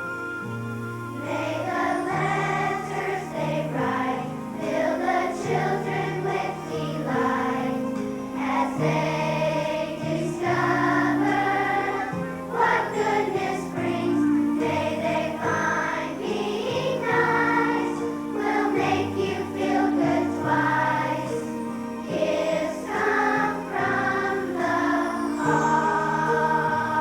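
Children's choir singing a song over an instrumental accompaniment with sustained bass notes.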